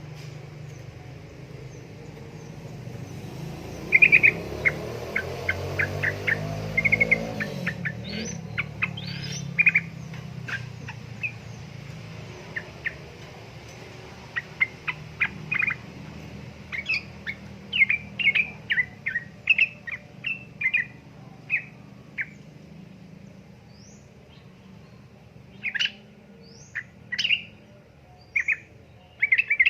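Yellow-vented bulbul (trucukan) calling in short, sharp chirps, with quick runs of notes and scattered calls. Under the first part runs a low rumble that cuts off about eight seconds in.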